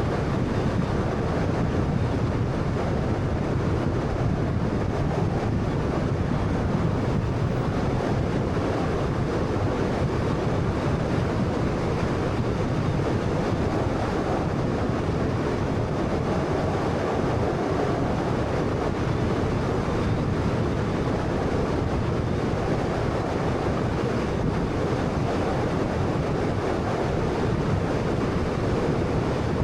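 Steady road and tyre noise from a moving 2013 Honda Fit with a 1.3-litre engine: an even, constant rumble that holds without change.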